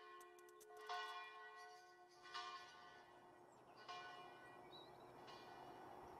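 Faint bell struck four times, about one and a half seconds apart, each stroke ringing on under the next; the last stroke is weaker.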